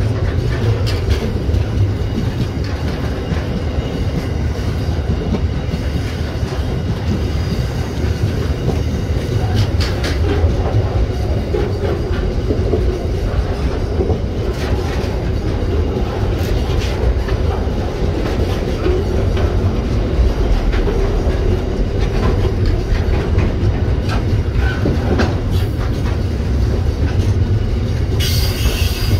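Container freight train wagons rolling past close by: a steady rumble of steel wheels on rail, with repeated clicks of the wheels passing over rail joints.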